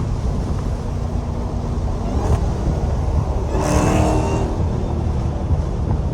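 Straight-piped Dodge Challenger Hellcat's supercharged 6.2-litre V8 exhaust rumbling steadily at freeway speed, heard from inside the cabin, with a brief louder swell about four seconds in.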